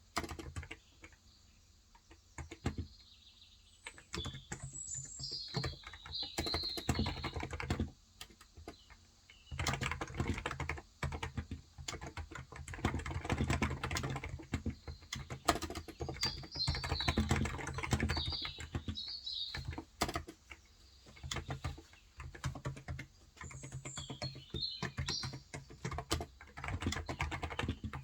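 Typing on a Cox Endeavor electro-capacitive (Topre-style) 35 g tenkeyless keyboard, in bursts of keystrokes with short pauses between them. A bird chirps in three short runs: about five seconds in, in the middle, and near the end.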